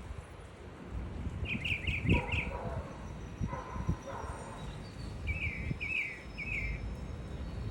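Small birds chirping: a quick run of about four short, high chirps roughly a second and a half in, and another run of three or four a few seconds later, over low rumbling noise.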